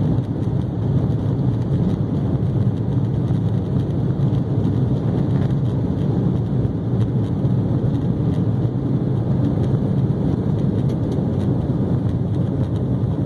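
Embraer E190's two turbofan engines at takeoff thrust during the takeoff roll, heard from inside the cabin as a loud, steady noise.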